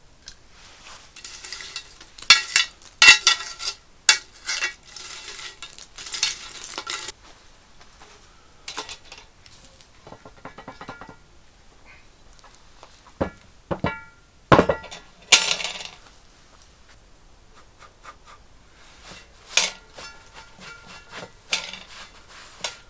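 Metal cookware clanking and clinking in irregular clusters, some strikes leaving a short metallic ring: pots, lids and utensils being handled.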